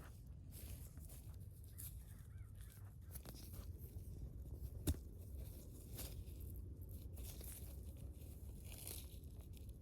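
Hands breaking up clumps of dug yard clay and sand: faint, irregular crunching and scraping, with one sharp knock about five seconds in.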